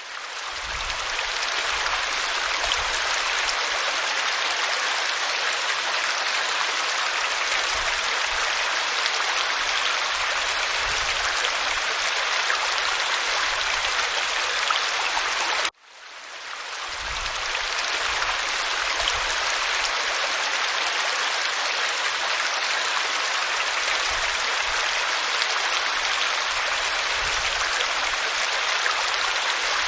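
Waterfall pouring over rocks, a steady full rush of water. About halfway through, the sound cuts out briefly and fades back in over a second or two, the seam of a repeating loop.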